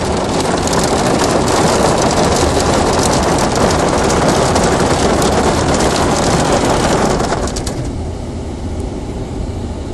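Heavy hail pelting down, a dense clatter of countless small impacts that eases off about seven and a half seconds in.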